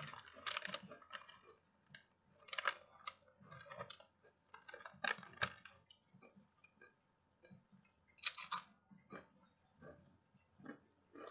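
A person biting and chewing crisp kettle-cooked potato chips: irregular crunches every second or so, with short pauses between them.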